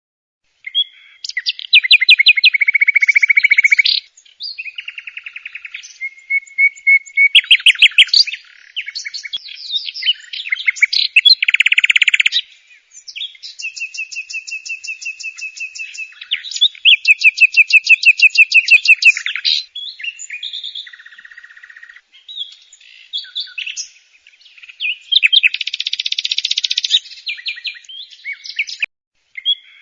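Songbird singing close by: a long, varied song of fast trills and chirps that breaks off in short pauses.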